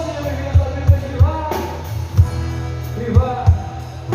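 Live sertanejo band music: a melodic lead line over a kick-drum beat, with no lyrics sung at this moment.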